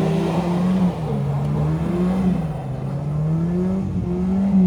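Off-road 4x4's engine working under load, its revs dropping about a second in, then climbing gradually and peaking near the end.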